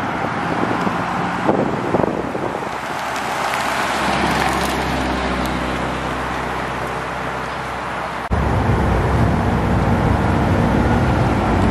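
Subaru Impreza WRX turbo flat-four engine running as the car pulls away and drives past. About eight seconds in it cuts abruptly to the louder, deeper V8 of a C4 Corvette rolling by.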